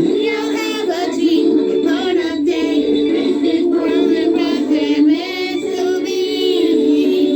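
A song: singing voices with vibrato over sustained backing music.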